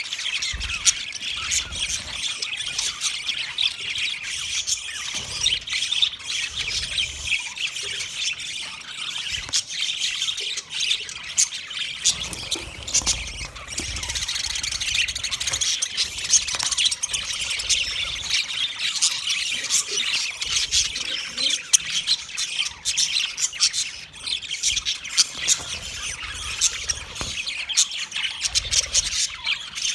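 Budgerigars calling together: a continuous chatter of many overlapping short, high calls.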